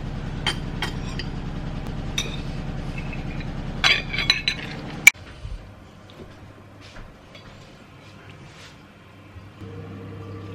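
Dishes and utensils clinking and knocking over a steady low hum; a sharp click about five seconds in, after which the hum drops to a quieter background.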